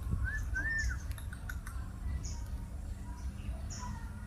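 Small birds chirping: two short rising-and-falling whistled notes about half a second in, and a brief high note repeating about every second and a half, over a low background rumble.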